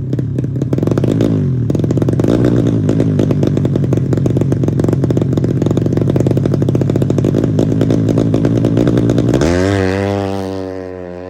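Bored-up 150 cc Honda Supra motorcycle engine in a Yamaha Jupiter drag-bike frame, running hard at high revs with a rapid, clattering exhaust. Near the end the sound changes to a smoother drone and fades.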